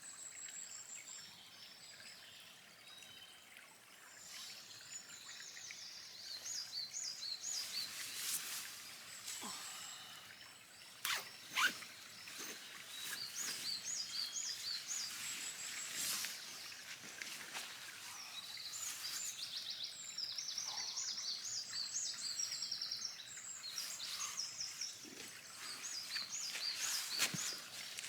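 Songbirds singing in woodland, repeated short phrases of high, quick notes, over faint background hiss. A few sharp cracks or clicks break in, the loudest about a third of the way through.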